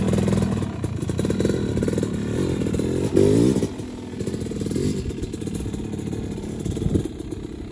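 Dirt bike engine running and revving, its pitch rising and falling, with the loudest rev about three seconds in.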